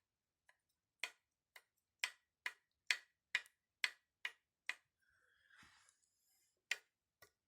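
Pistons of a Toyota Prius 20's 1NZ-FXE engine being rocked by hand in their bores, clicking sharply against the cylinder walls about twice a second, with a short scrape near the end. The knock shows excessive piston-to-bore clearance in this oil-burning engine.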